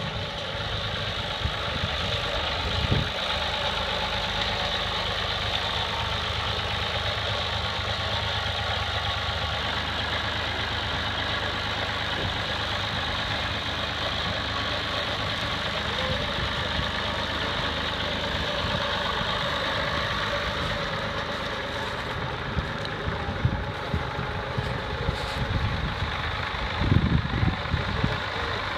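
Tractor engine running steadily. A few short thumps break through near the end.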